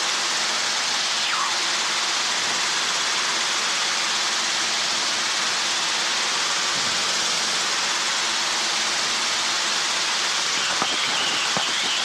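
Steady hiss of helicopter cockpit noise heard through the headset intercom, with a couple of faint clicks near the end.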